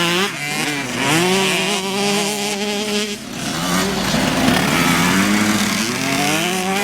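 Small two-stroke youth motocross bike engines (50cc/65cc class) racing, revving up and down: the pitch climbs at the start, holds steady, drops about three seconds in, then climbs again near the end.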